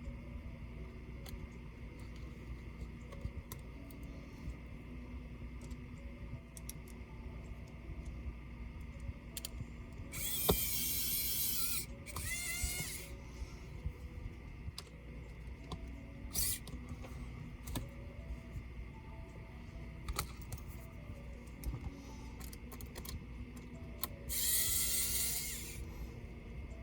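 A small electric screwdriver's motor whirring in three short bursts, rising in pitch as it spins up, with small clicks and taps of screws and laptop parts in between.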